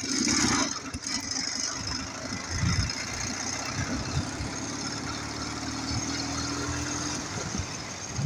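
Ural motorcycle's flat-twin engine running while being ridden, loudest in the first second, then a steady drone.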